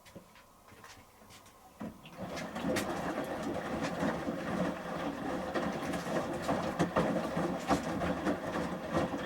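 Front-loading washing machine drum, a Samsung Series 5+, starting to turn about two seconds in, then water sloshing with the clothes tumbling and knocking in the drum during the wash phase of a shirts programme.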